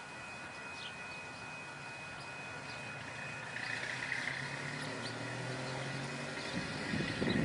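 Birds chirping over faint outdoor background, while the low rumble of an approaching train grows louder through the second half.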